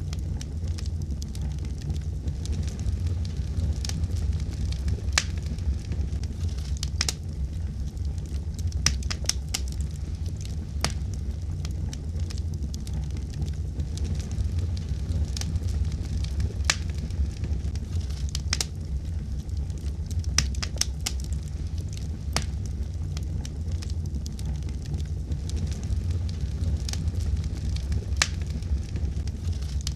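Wood fire crackling in a fireplace: a steady low rumble of burning with irregular sharp pops and snaps, some of them coming in quick clusters.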